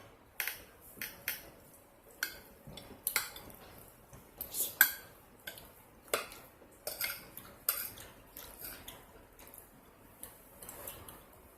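Cutlery clinking and scraping against a plate during a meal: irregular short clicks, one or two a second.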